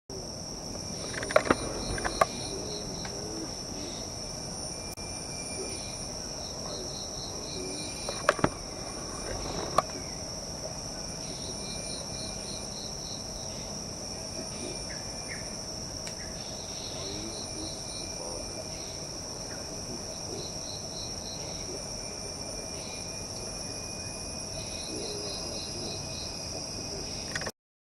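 Forest insect chorus: a steady high-pitched insect drone, with short trains of rapid ticks repeating every few seconds. A few sharp clicks come in the first ten seconds.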